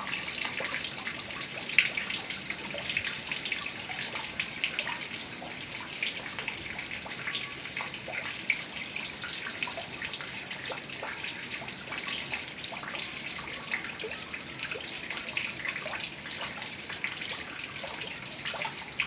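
Heavy rain falling steadily, a dense hiss of drops with many small splashes and ticks.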